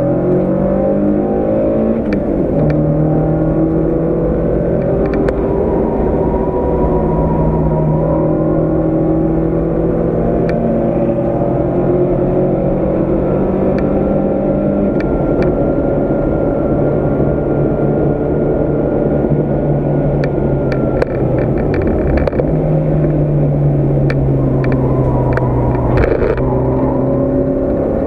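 Volkswagen Golf MkII 16v's four-cylinder engine, heard from inside the cabin, running hard on track: the pitch holds high and climbs slowly, then drops sharply a few times, about two seconds in and again around twenty-one seconds, at lifts and gear changes. Scattered sharp clicks sound over it, thickest in the last third.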